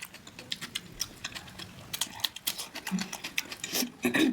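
Close-miked eating sounds: an irregular run of sharp, crisp clicks and crunches from chewing, loudest in a cluster near the end.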